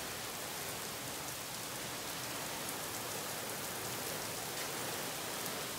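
Heavy downpour: a steady hiss of rain pouring onto a concrete driveway, a parked car and lawns.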